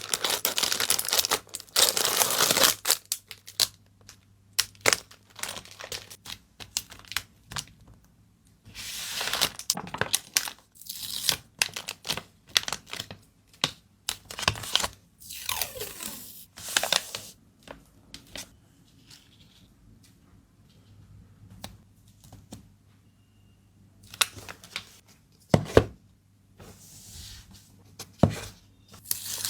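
Packing materials being handled: bursts of tearing and crinkling, like tape and plastic wrap being pulled and torn, with scattered taps and clicks in between. A longer rustle opens the stretch, and two sharp clicks come near the end.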